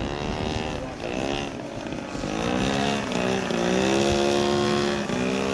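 Engine of a large-scale radio-controlled model aircraft in flight, its note dipping and rising several times before holding steadier.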